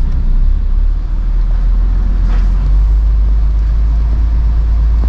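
Lorry's diesel engine idling with a steady low rumble.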